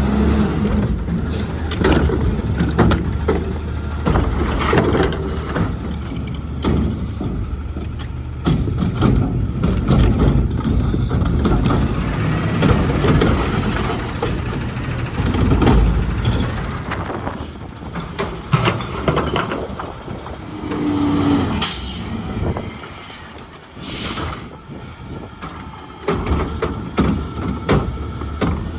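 Garbage truck running, its diesel engine rumbling steadily, with many metal clanks and knocks and air-brake hissing.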